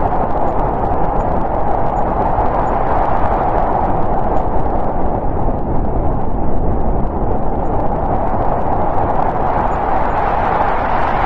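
Snowstorm wind blowing steadily, a dense rushing noise with a hollow howl in its middle range and a low rumble underneath, thinning a little midway and then building again.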